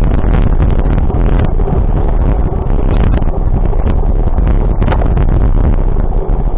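Loud, steady wind rushing and buffeting on the microphone over a low rumble, as from a camera on a moving vehicle.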